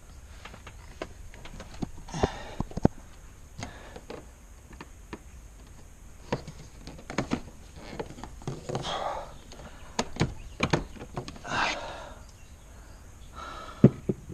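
Car interior parts being taken apart and handled: scattered clicks and knocks, with a few short scraping or rustling sounds.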